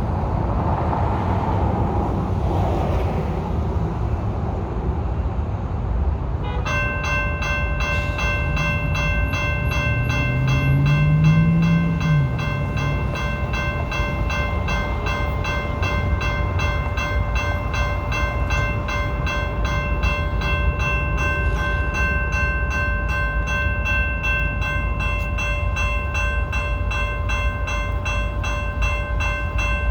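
BNSF train passing with a steady rumble. About six seconds in, a railroad crossing bell starts ringing rapidly and keeps going.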